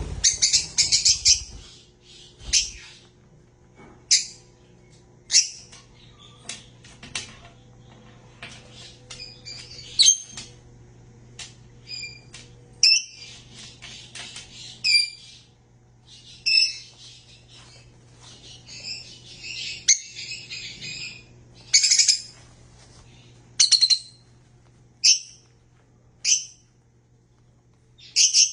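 Pet birds chirping and calling: loud, sharp high chirps every second or two, with stretches of rapid chatter between them, over a low steady hum.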